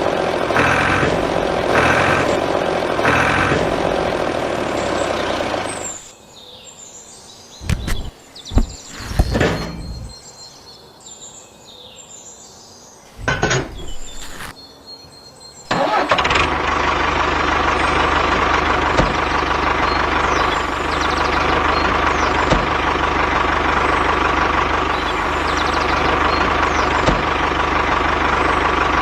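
A rhythmic pulsing sound for the first six seconds, then a quieter stretch with birds chirping and a few knocks. From about sixteen seconds in, a small motor runs steadily.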